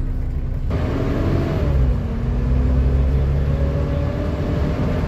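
Volvo B7TL double-decker bus's 7-litre six-cylinder diesel pulling under load, with a sudden rush of noise about a second in, a dip in pitch like a gear change, then a slowly rising whine: the 'hoover' sound these buses are known for.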